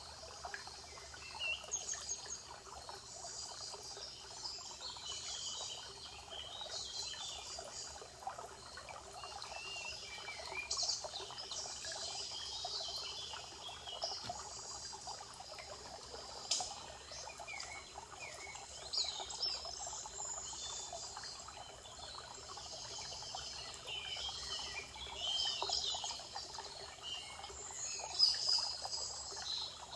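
Several songbirds singing and chirping in quick, overlapping phrases over the steady trickle of running water.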